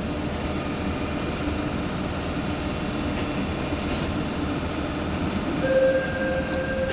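Seoul Subway Line 4 electric train pulling away from a station after its doors close, with steady running noise and a low hum. A steady tone comes in about five and a half seconds in, with a brief rise in loudness.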